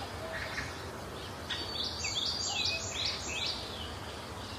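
Birds calling: a quick run of about six short, falling chirps starting about a second and a half in, with a few fainter chirps before it, over a steady background hiss.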